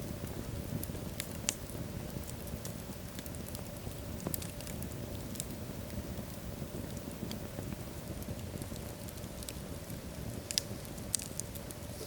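Wood fire burning in a fireplace, logs crackling with scattered sharp pops over a low steady rumble of the flames; a few louder pops about a second and a half in, around four seconds in and near the end.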